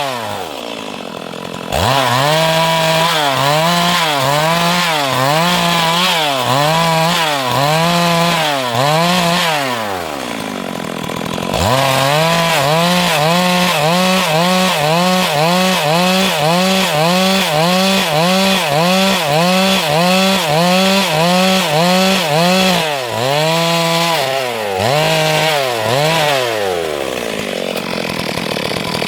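Stihl MS 382 two-stroke chainsaw cutting wood, its engine pitch rising and falling in regular waves about every half second as the chain bites and frees. The engine drops off briefly twice, once at the start and once about ten seconds in, and eases lower near the end.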